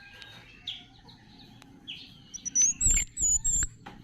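Small cikrak warbler chirping: thin, high calls with short rising and falling notes, coming thicker in the last second and a half. A few low thumps sound about three seconds in.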